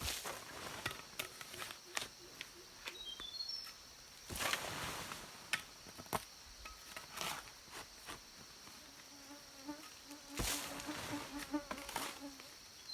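A fly or bee buzzing close by, its drone pulsing in and out in the second half, over a steady high-pitched insect chorus. Irregular knocks and scraping bursts break in now and then.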